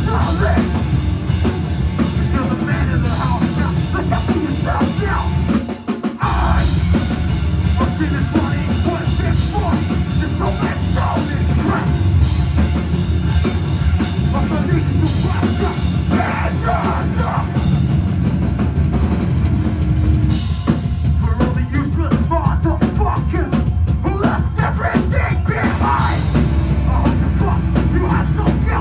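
A heavy metal band playing live and loud, with drum kit and distorted guitars. The band drops out briefly about six seconds in and comes straight back in.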